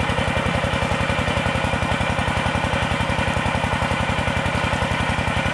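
Tractor engine driving a water pump, running steadily with an even, rapid chugging of about twelve beats a second.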